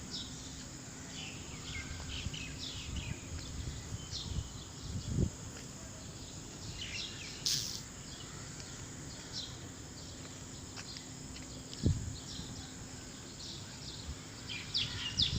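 Birds chirping in short calls over steady background noise, with two dull thumps, one about a third of the way in and one near three-quarters, and a brief sharp click around the middle.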